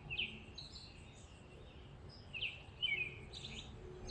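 Small birds chirping: about half a dozen short, high chirps scattered over a few seconds, over faint outdoor background noise.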